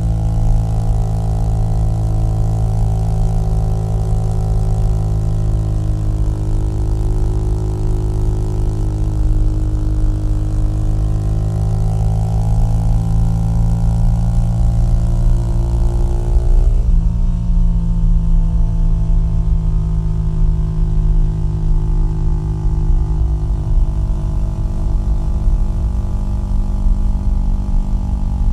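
Small-displacement single-cylinder motorcycle engine and exhaust running steadily under way. A little past halfway the note changes abruptly and the rushing hiss above it drops.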